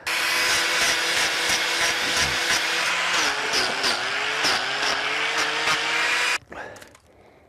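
Electric angle grinder with a hoof-trimming disc grinding away a cracked part of a lame cow's hoof. It starts suddenly, its pitch sags a few times under load around the middle, and it cuts off about six seconds in.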